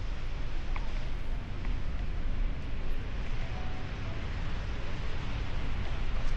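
Steady wind rush and rumble buffeting the microphone while riding a bicycle.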